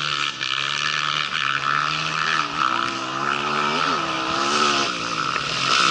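Rally motorcycle engine running, its pitch mostly steady with two short throttle blips about two and four seconds in, then fading near the end, over a steady hiss.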